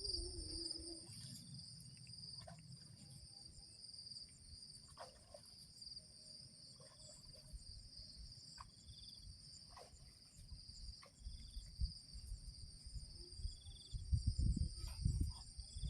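Insects chirring steadily in two high, even bands, with scattered faint ticks. A louder low rumble comes near the end.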